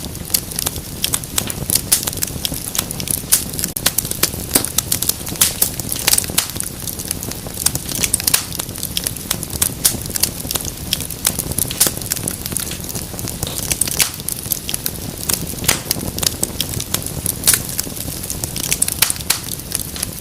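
Wood fire crackling in a fireplace: frequent irregular pops and snaps over a low steady rumble of burning.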